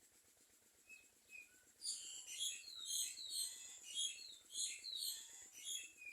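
Birds chirping: a couple of faint high chirps about a second in, then from about two seconds in a dense, rapid run of high overlapping chirps.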